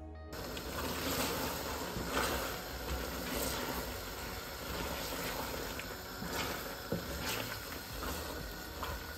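Turnips, meat and masala sizzling steadily as they fry in the pot, with a few brief louder scrapes.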